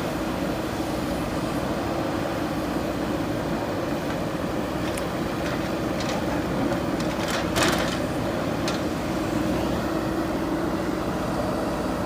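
JCB backhoe loader's diesel engine running steadily under work, with a few sharp knocks and scrapes about halfway through as the machine works the concrete slab. The loudest knock comes about seven and a half seconds in.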